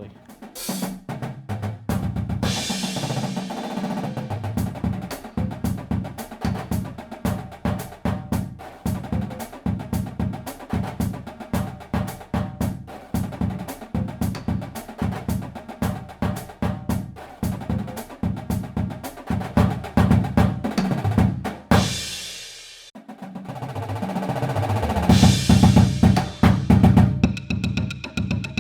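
Background music: a drum-heavy track with a steady, fast beat. About three-quarters of the way through it drops out briefly, then builds back up.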